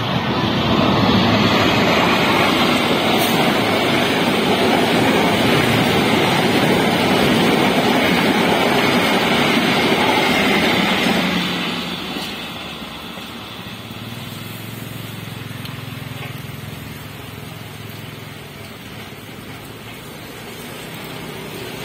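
Argo Lawu express passenger train passing at speed behind a diesel locomotive: a loud, steady rush of locomotive and wheels on rails. It drops away about twelve seconds in, leaving the steady noise of heavy rain with a faint low hum.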